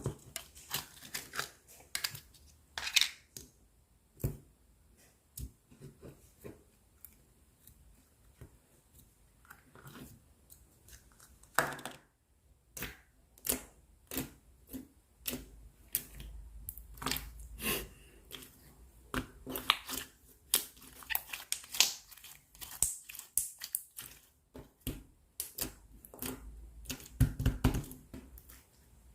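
Clear slime being squeezed, pressed and stretched by hand, making irregular clicks, pops and crackles, busier in the second half.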